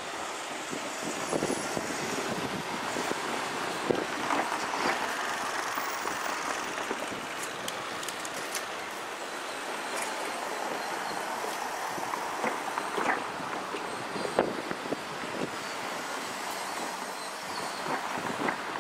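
Seibu 2000-series electric commuter train running out over the station's crossovers: a steady rumble of steel wheels on rail, with scattered sharp clicks as the wheels cross rail joints and points.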